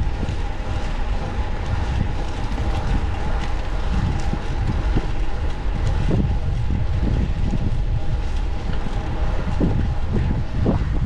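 Wind rumbling over the microphone of a camera on a moving bicycle, with steady road noise from the riding.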